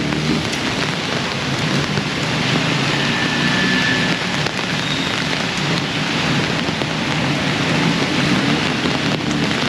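Heavy rain pouring down onto the street and puddles, a steady, dense hiss. A low engine hum comes and goes underneath it.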